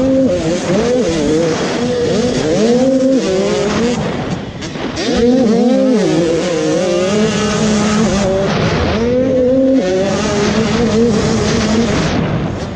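Motocross bike engines racing, their pitch climbing and dropping again and again as the riders work the throttle and shift gears.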